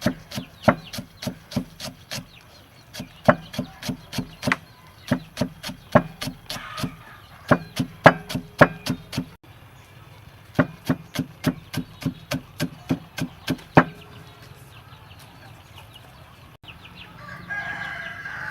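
Rapid sharp knocks, about three a second, come in runs with short pauses and stop about three-quarters of the way through. A brief higher-pitched sound follows near the end.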